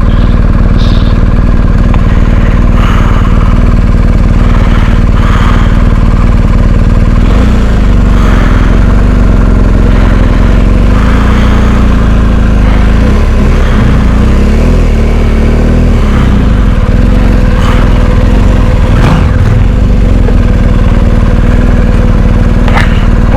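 Big twin-cylinder adventure motorcycle engine running at low off-road speed, the revs rising and falling a few times about halfway through.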